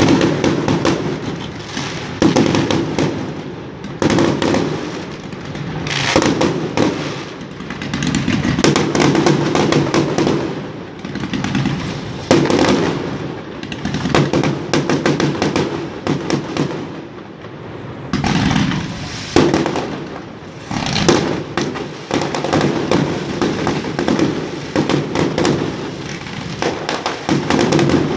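Fireworks display: a continuous barrage of bangs and crackling, swelling into louder volleys every couple of seconds.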